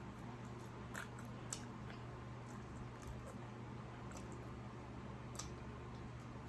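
Faint eating sounds: a person chewing food, with a few soft clicks, over a steady low hum.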